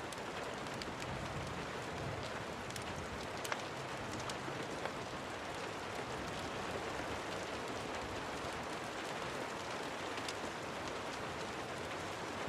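Steady rain falling, with a few sharp clicks scattered through it.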